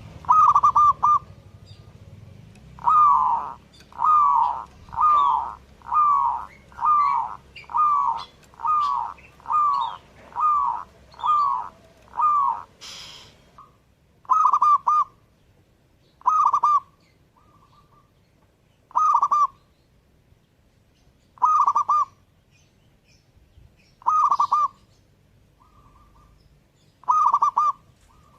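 Zebra dove (perkutut) cooing: a run of about ten falling coos, roughly one a second, then short clipped phrases of quick notes repeated every two to three seconds. A brief noise sounds about halfway through.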